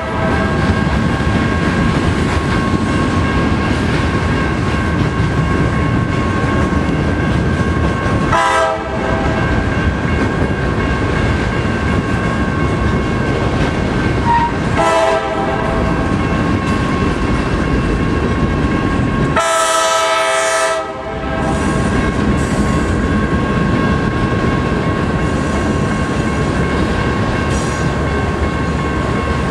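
Freight train rolling by: a steady, loud rumble of wheels on the rails, with several steady high tones held over it. The rumble drops out briefly a few times, longest about two-thirds of the way in.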